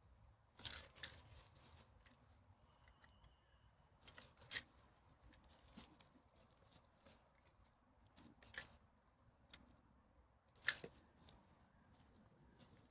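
Faint, scattered rustles and crinkles of litter-picking: plastic rubbish and dry forest-floor debris being handled, with a few sharper crackles every few seconds.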